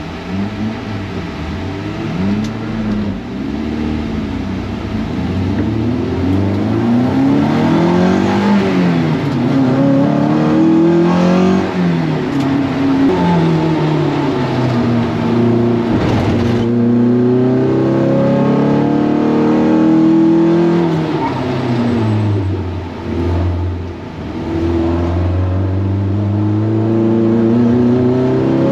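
Toyota MR2 race car engine under hard acceleration, its pitch climbing through each gear and dropping at each shift, with falling sweeps as it slows for corners. Heard from the car's onboard camera.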